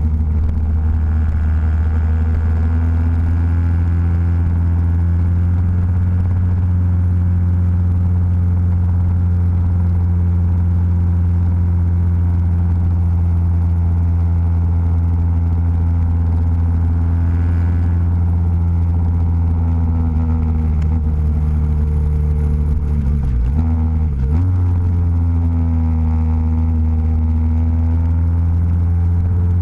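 Motorcycle engine running steadily at cruising speed, heard from a camera mounted on the bike. Its pitch dips sharply and comes back twice, about 23 seconds in.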